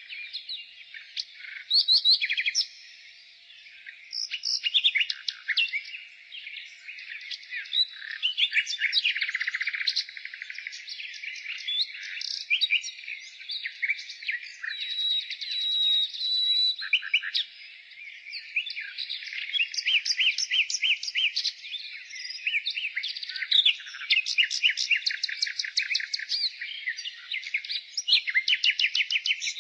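Common nightingale singing: fast runs of rapidly repeated notes and trills, with a held whistle around the middle.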